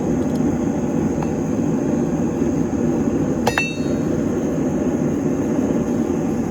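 Steady low roar of a blacksmith's forge, with a single ringing clink of steel on steel about halfway through and a hammer blow on the anvil at the very end.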